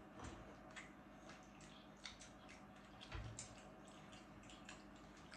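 Faint wet chewing and mouth smacks of people eating soft, filled doughnuts: scattered small clicks and squishes over a low steady hum.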